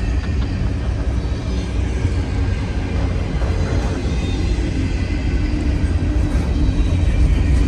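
Cars of a CN intermodal freight train rolling past steadily, a constant low rumble of wheels on rail.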